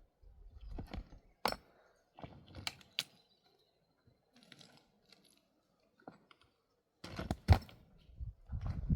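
A few scattered sharp clicks and knocks, the loudest about one and a half and three seconds in. A louder rumbling stretch with a strong knock follows near the end.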